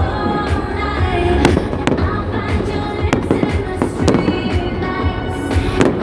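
Fireworks bursting in a string of sharp bangs, a few per second at irregular intervals, over music playing steadily.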